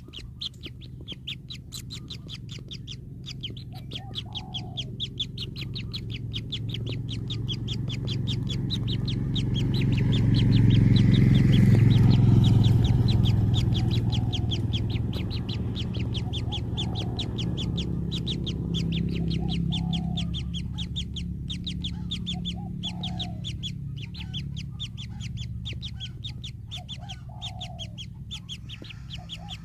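Birds calling: a fast, even train of high chirps throughout, with short lower calls every few seconds. A low hum swells to its loudest in the middle, then fades.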